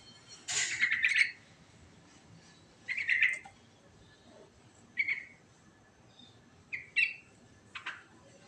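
Yellow-vented bulbul (trucukan) singing short bubbly chirping phrases, five of them, each broken by a pause of one to two seconds. The first phrase is the longest and loudest.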